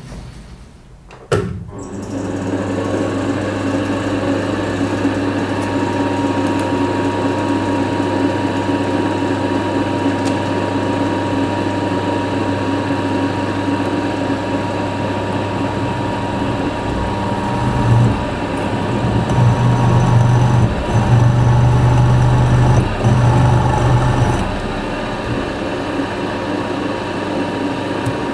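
An electric machine tool's motor is switched on with a click about a second in and runs steadily with a low hum. It gets louder for several seconds about two-thirds of the way through, then settles back.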